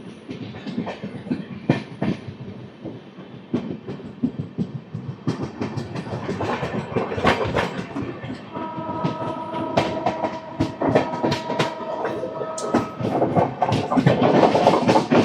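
Indian Railways express train running, its wheels clattering over rail joints in rapid clicks that come thicker and louder toward the end. A steady held tone sounds over the clatter for about four seconds in the middle.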